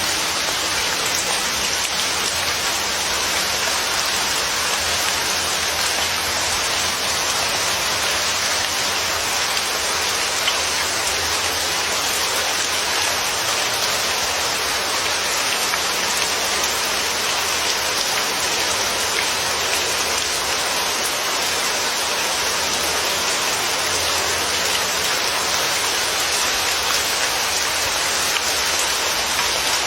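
Steady rain falling, an even hiss of drops with no thunder or breaks.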